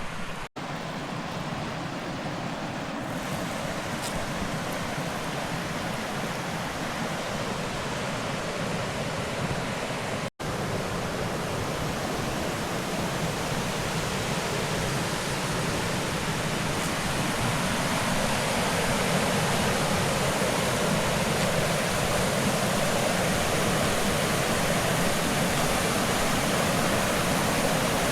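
Water rushing over limestone waterfall cascades: a steady, even roar that grows gradually louder toward the end. The sound cuts out for an instant twice, once just after the start and once about ten seconds in.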